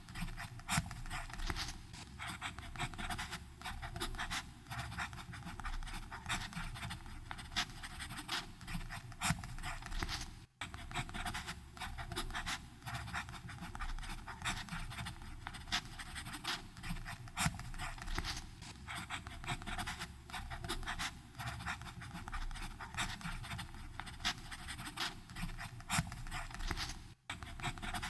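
Fountain pen nib scratching across paper in continuous writing strokes, with two brief pauses, about ten seconds in and near the end.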